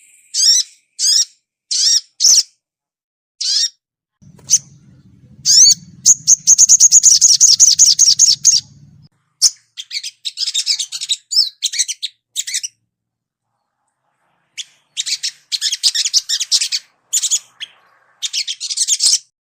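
Sogon, a small sunbird, singing: short, high sweeping chirps in quick bursts, with a fast rattling trill about six seconds in, the 'cuit cuit crett' call used to prompt other sogon to sing.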